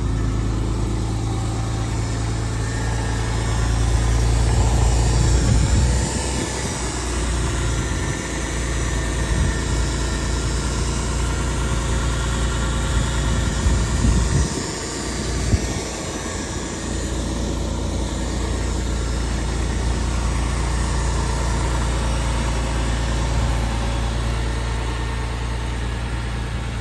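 Porsche 911 Carrera 4's flat-six idling steadily on a cold start, the engine still cold. A few sharp knocks come about halfway through.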